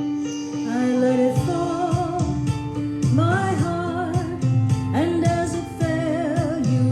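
Singing with piano accompaniment: a solo voice with vibrato, in phrases over held piano chords.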